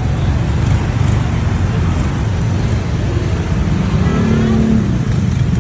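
Motorcycle riding through city traffic: steady engine and road noise, with a brief higher pitched tone joining about four seconds in.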